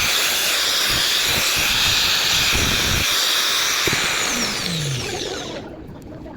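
Electric grinder running at speed with a loud, airy high whir, then switched off about four and a half seconds in and winding down, its pitch falling as it slows.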